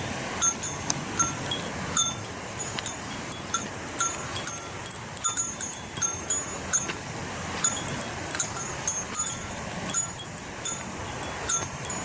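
Many short, high chirping calls, several a second and uneven, over the steady rush of the Onogawa Fudo waterfall.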